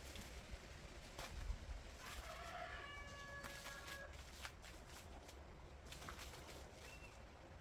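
A chicken gives one drawn-out call of about two seconds, starting about two seconds in. Faint scattered clicks are heard throughout, and a short high chirp comes near the end.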